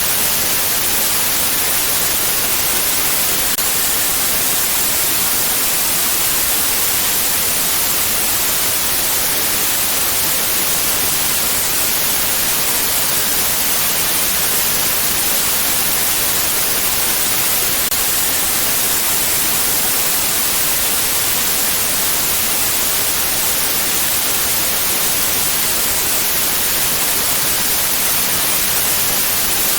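Steady white noise: a constant, even hiss, strongest in the high frequencies, with no change in level.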